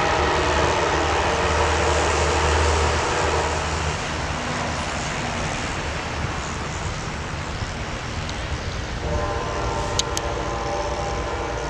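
A passing train's diesel locomotive sounding its multi-tone air horn, a long blast in the first few seconds and another starting about 9 seconds in, over the steady running noise of the train.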